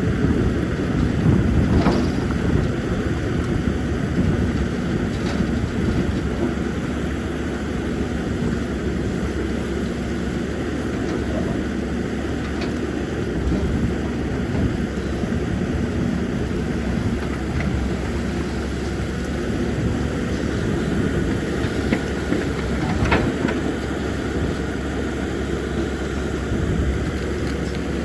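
CAT 320D excavator's diesel engine running steadily under work, with a few short sharp knocks, the strongest about two-thirds of the way through.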